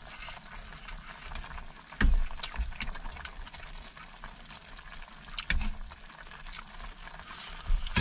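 A pot of braised beef simmering with a steady bubbling hiss, broken by three sharp knocks with small clicks spaced a few seconds apart.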